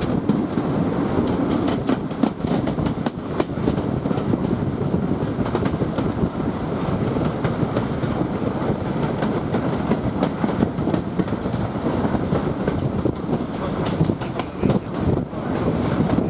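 Passenger coach of a steam-hauled heritage train running along the line, heard from on board: a steady rumble with irregular clicks of the wheels over the track.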